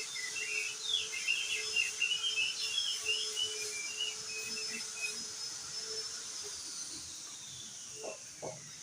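Crested white-eye (opior jambul) singing a fast twittering run of short chirps that stops about five seconds in. Through it runs a thin steady high whistle tone, which slides down in pitch over the last few seconds.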